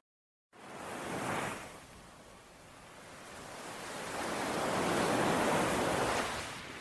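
Ocean waves washing onto a shore. The sound cuts out completely for about half a second at the start, then a small wave swells and falls back, and a bigger one builds slowly to a long, full wash before easing off near the end.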